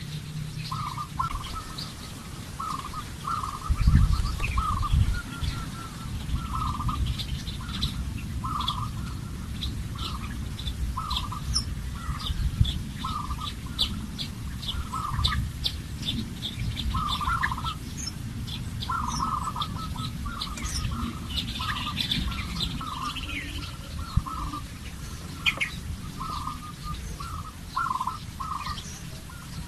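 Birds calling: a short call repeated roughly once a second, with thin, higher chirps over it and a low rumble underneath.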